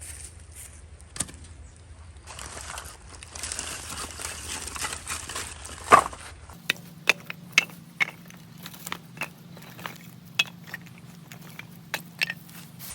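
Crinkling and rustling with a sharp knock about six seconds in, then irregular sharp pops and snaps of firewood burning in a wood stove.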